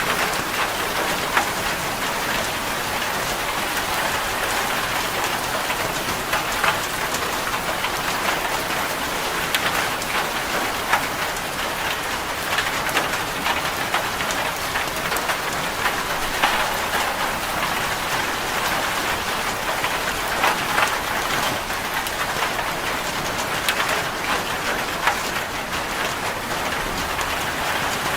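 Rain falling on a corrugated zinc roof: a steady hiss dense with small sharp ticks of drops striking the metal.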